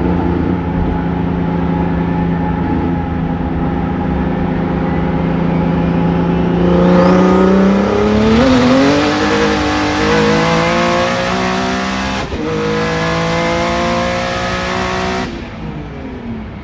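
Turbocharged Nissan 370Z V6 running hard, its note climbing from about six and a half seconds in with a rising turbo whistle. It breaks briefly about twelve seconds in, then carries on and lets off near the end.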